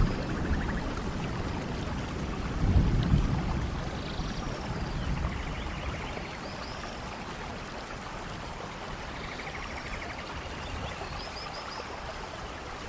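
Steady heavy rain with a low rumble of thunder in the first few seconds, loudest about three seconds in, then dying away to rain alone.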